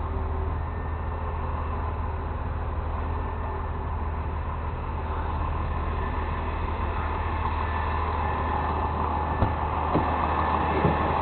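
Tow truck's engine running steadily, with a few short sharp clicks or knocks near the end.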